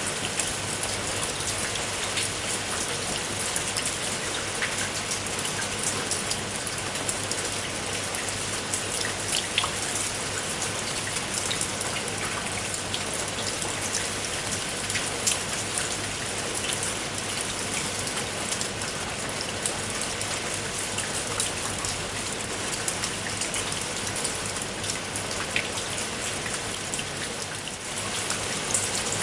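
Steady rain falling on a surface: an even hiss with many separate raindrops ticking sharply through it.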